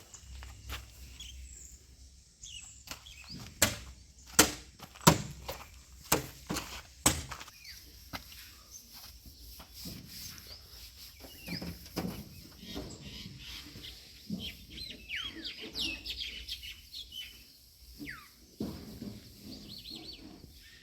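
A handful of sharp knocks, several of them loud, a few seconds in, followed by birds chirping in short, quick up-and-down calls over quiet outdoor background.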